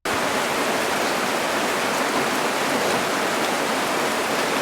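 Heavy rain pouring down: a loud, steady hiss that starts abruptly at the clip's beginning.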